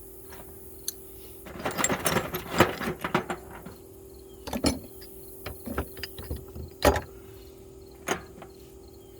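Loose metal hand tools and sockets clattering and clinking as they are handled and sorted: a run of rattling about two seconds in, then a few single sharp knocks.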